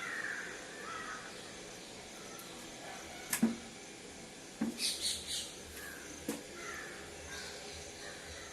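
A bird calling in short bursts, a few calls at the start and a few more in the second half, with three sharp clicks and a brief cluster of hissy noises in between.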